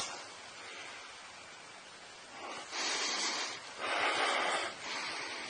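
A man's heavy breathing close to the microphone: two long, loud breaths about two and a half and four seconds in, over a low hiss, with a sharp click at the very start.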